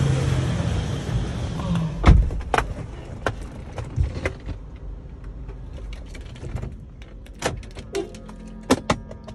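Toyota Prado engine idling just after a remote start, loudest for the first two seconds and then settling lower. Scattered sharp clicks and knocks sound over it throughout.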